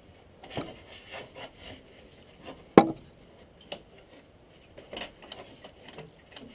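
Scattered knocks and scraping from tools and parts being handled, with one sharp, loud knock about three seconds in.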